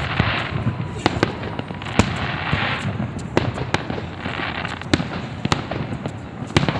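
Fireworks going off: a rapid, irregular run of sharp bangs, with patches of crackling hiss from bursting shells between them.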